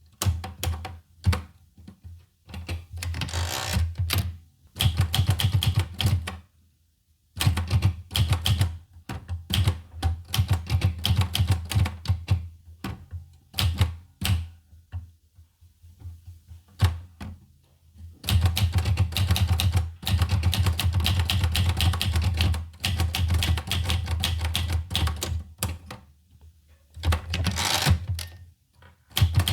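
Olivetti Lettera 25 portable manual typewriter being typed on: fast runs of key strikes, with a few short pauses and a stretch of slower, scattered keystrokes about halfway through.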